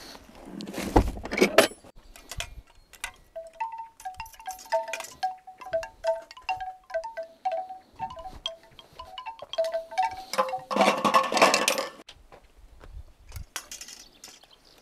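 Small metal bells or chimes ringing a run of short notes at several pitches, with a loud rushing noise briefly near the start and again about eleven seconds in.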